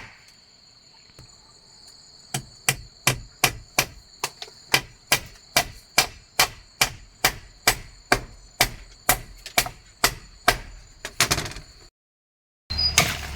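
Repeated sharp blows of a hand tool, chopping or hammering at an even pace of about two and a half strikes a second, over the steady high buzz of insects. Both stop suddenly shortly before the end.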